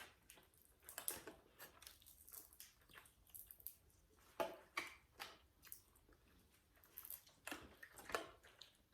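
A person eating close to the microphone: soft chewing with wet lip smacks and clicks at irregular intervals.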